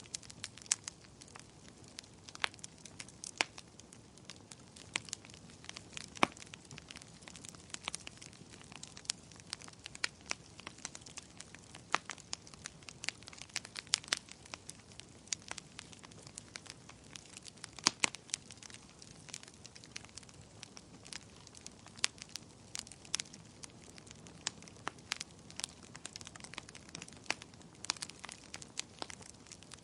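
Campfire burning, wood crackling with irregular sharp pops and snaps, a few louder than the rest, over a soft low hiss of flame.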